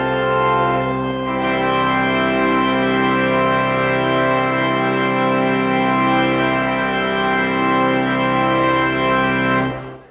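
Church organ playing sustained chords over a held bass note, growing fuller about a second and a half in, with the final chord released near the end.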